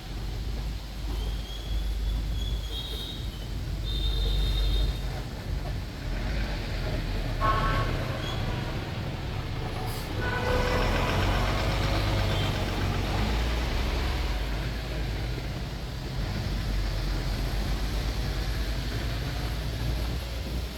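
City traffic heard from a moving tour bus: a steady low engine and road rumble, with short high beeps in the first few seconds and louder horn-like tones about seven and ten seconds in.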